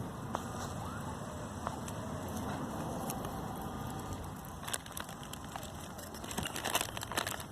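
Wood fire burning down to embers, with scattered sharp crackles and pops, a quick cluster of them near the end, over a steady background rumble.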